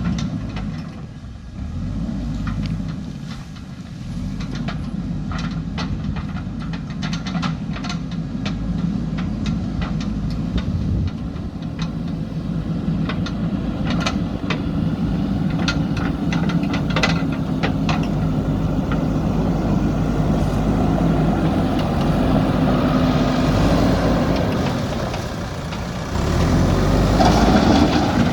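JCB backhoe loader's diesel engine running steadily under working load, with a scatter of sharp clicks and clanks in the first half. The engine climbs in level about two-thirds of the way in, eases briefly, then runs harder again near the end.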